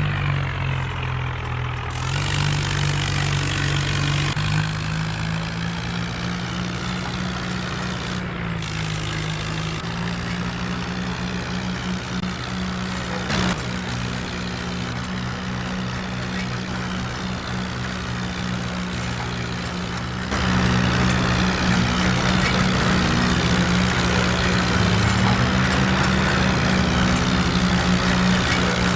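Tractor engine running steadily, its pitch shifting slightly now and then; it becomes louder about twenty seconds in.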